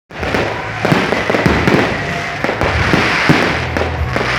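Fireworks display: a dense run of bangs over continuous crackling.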